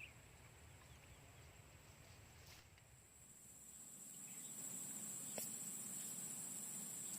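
Insects trilling outdoors in one steady high-pitched tone that grows louder about halfway through, with a faint click just after.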